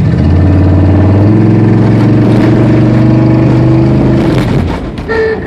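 1994 GMC Yukon's V8 engine under hard acceleration, its pitch rising, held loud for about four seconds, then dropping away as the throttle is let off.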